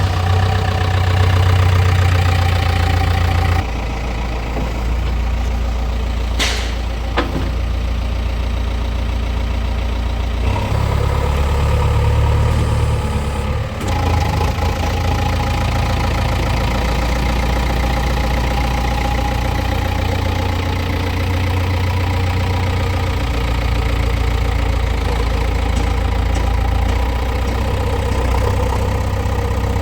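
Diesel engine of a backhoe loader or farm tractor running steadily, its sound shifting a few times. There is one sharp clank about six and a half seconds in.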